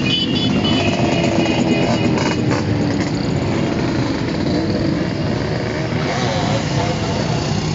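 Many motorcycle engines running together in a caravan, a steady dense engine noise.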